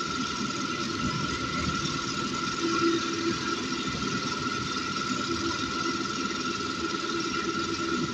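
Ceiling fan coil winding machine running steadily on automatic as it winds copper wire into a stator coil, a constant hum with a steady high whine.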